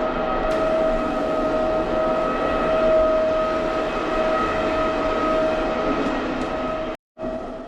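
Carpet cleaning machine motor running steadily with an even, high whine. It cuts out abruptly near the end, comes back faintly and fades.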